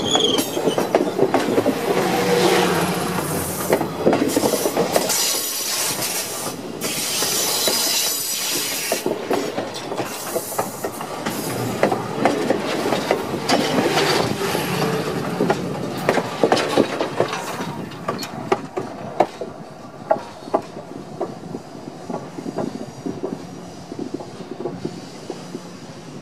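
Railway cars rolling directly overhead, heard from the track bed: steel wheels clicking and clattering over the rails. After about 18 seconds the sound falls away as the end of the train passes, leaving separate, fainter clicks.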